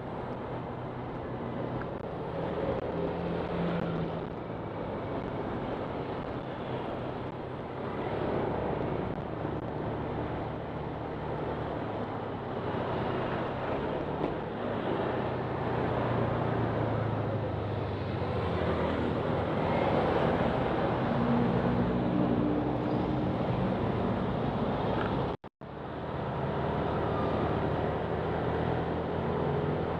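Honda Click 125 scooter's small single-cylinder engine running while riding, mixed with road and wind noise, its pitch rising and falling with the throttle. The sound cuts out for a moment about 25 seconds in.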